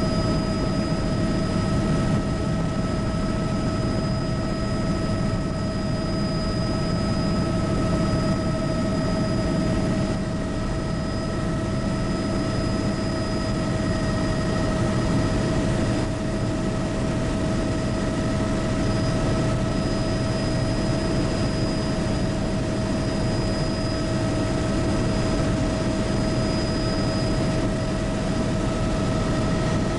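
Bell 206B helicopter in steady flight, heard from inside the cabin: a constant low drone of rotor and engine with several steady high whines from the turbine and gearbox.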